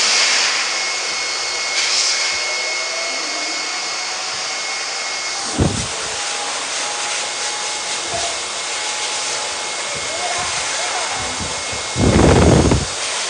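Blow dryer running steadily on a wet dog after its bath: a loud rush of air with a faint high whistle. The sound changes about five and a half seconds in, and there are louder rushes near the end.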